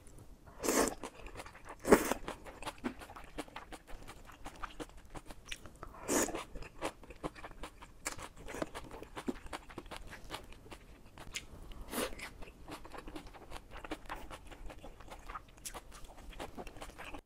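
Close-miked chewing of mala stir-fried udon noodles and vegetables, mouthful after mouthful, with a few sharper, louder clicks about 1, 2, 6 and 12 seconds in.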